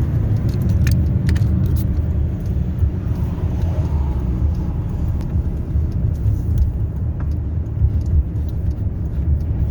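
Steady low rumble of a car driving, heard from inside the cabin, with a few light clicks about a second in.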